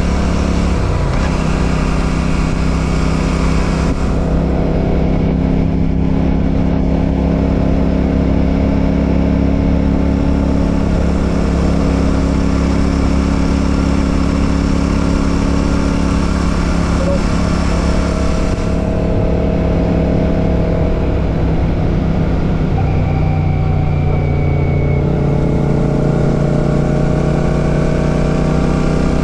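Royal Enfield Classic 650's 648 cc parallel-twin engine running under way, heard from the rider's seat. Its pitch holds steady for long stretches, drops about a second in and again around 22 seconds in, then rises steadily as it picks up speed near the end.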